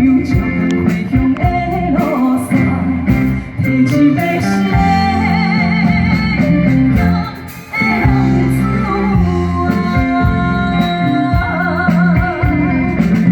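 A song performed live: a woman singing with vibrato over a backing track with guitar and bass.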